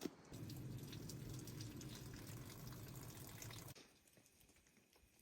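Liquid pouring steadily for about three seconds, with small splashy crackles, then stopping abruptly.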